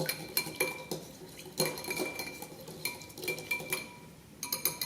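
A utensil stirring a small wet mixture of melted butter, vanilla and milk in a dish, with quick, irregular clinks against the side that leave a brief ringing tone.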